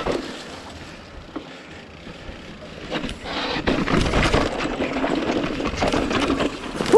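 Mountain bike rolling down a steep dirt-and-rock descent: tyres crunching and sliding over dirt and rock, with clicks and rattles from the bike. It gets louder from about three seconds in.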